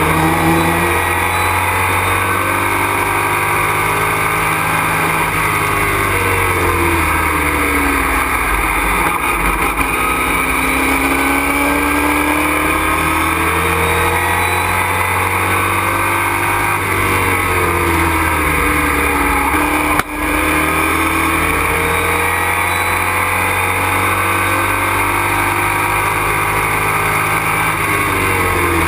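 Race truck engine heard from inside the cockpit under hard running, loud and steady. Twice its pitch slides down as the truck slows for a corner and then climbs again under acceleration. A short click with a brief drop in level comes about 20 seconds in.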